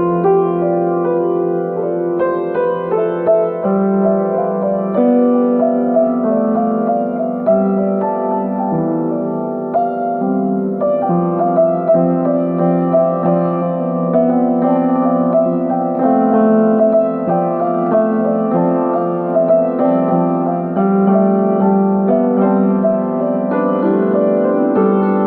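Solo piano improvising, with overlapping held notes and chords mostly in the middle register, moving on without a break.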